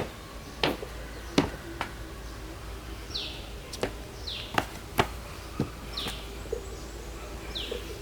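A bird repeating a short, high, falling chirp about every second and a half from about three seconds in. Sharp snaps or knocks come several times in the first half.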